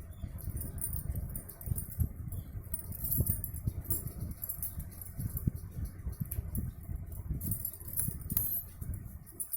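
Hands handling small craft pieces, making irregular light taps, clicks and rustles.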